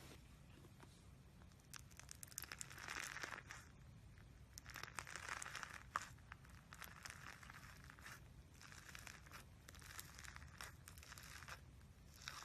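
Slime being handled: faint crackling and tearing sounds in several short spells as it is stretched and squeezed, with a few small clicks.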